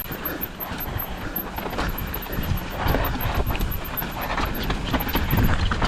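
Mountain bike rolling fast down a dry, loose dirt trail: tyres crunching and skidding over gravel and rocks, the bike rattling over bumps with many small knocks, and wind rumbling on the microphone.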